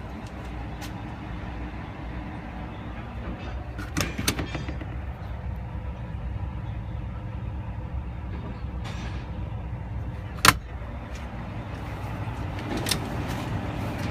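Detroit DD15 diesel engine of a Freightliner Cascadia idling with a steady low hum, with a few sharp clicks or knocks, the loudest about ten and a half seconds in.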